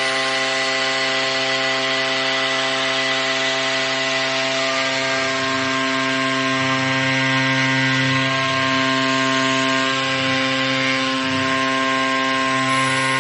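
Tomahawk Pro CNC machine milling a plate: the spindle runs at a steady pitch under continuous cutting noise, with slight wavering in the lower hum through the second half.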